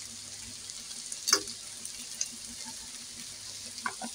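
Ivy gourd pieces frying in oil in a non-stick kadai, a faint steady sizzle over a low hum, with one sharp click about a second in.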